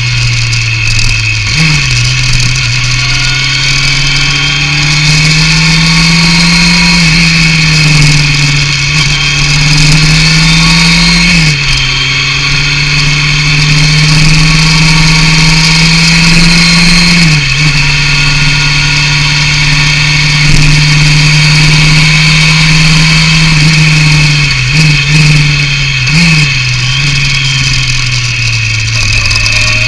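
Yamaha FZR 600 inline-four with a BOS aftermarket exhaust, running under way at a steady pitch. The pitch climbs slowly and then drops sharply about half a dozen times.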